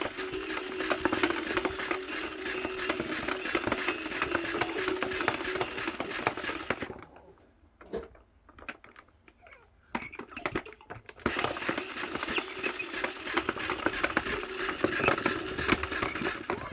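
Battery-powered frog pond toy running: a motor hum with a fast clattering of clicks. It drops away for about four seconds in the middle, then starts again.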